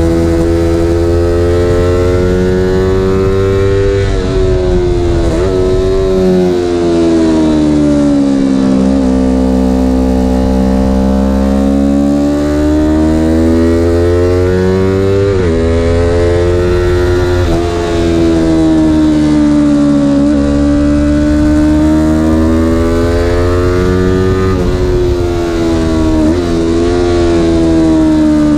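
Car engine revving up and down under hard driving, its pitch climbing in long sweeps and falling back, with a few sudden breaks in pitch.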